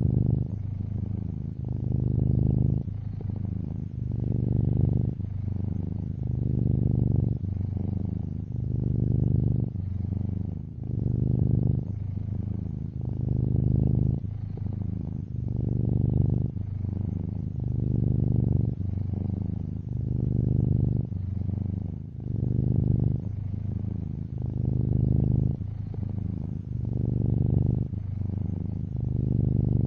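A domestic tuxedo cat purring close up: a steady low buzz that swells and eases about every two seconds.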